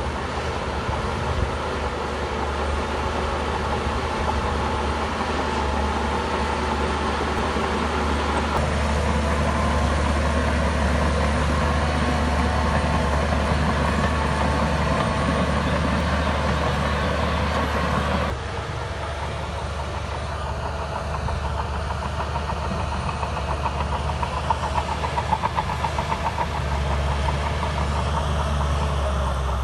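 Heavy diesel earthmoving machinery running steadily with a deep engine drone. The sound changes abruptly about 18 seconds in, and a few sharp knocks come through a little later.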